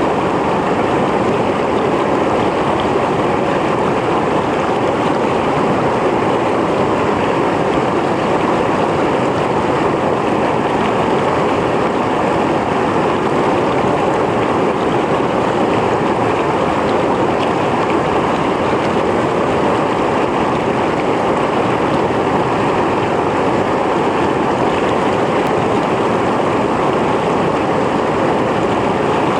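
Mountain stream flowing over rocks: a steady, loud rush of water.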